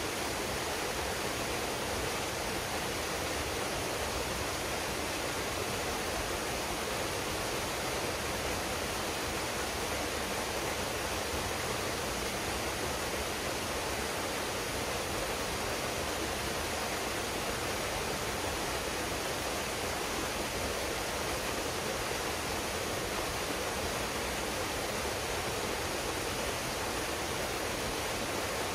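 Waterfall pouring into a pool, a steady even rush of falling water without a break.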